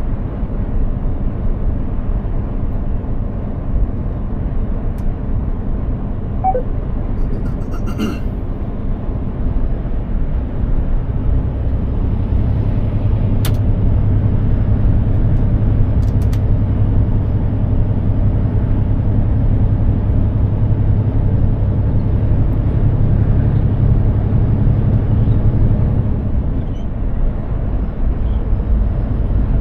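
Mercedes-Benz Actros 2763 truck driving, its engine and road noise making a steady low drone. The engine note grows stronger about a third of the way in and eases back near the end, with a few faint clicks along the way.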